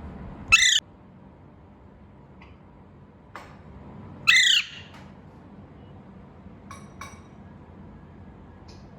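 A pet parrot squawking: two loud, harsh calls, each under half a second, about four seconds apart, followed later by a few faint short chirps.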